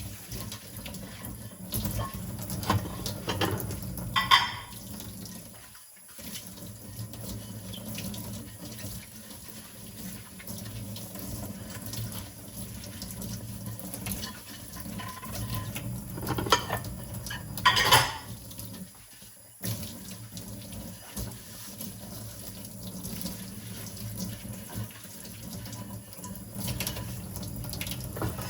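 Kitchen tap running into a sink while dishes are washed by hand, with a few sharp clinks of dishes striking each other. The water briefly drops away twice.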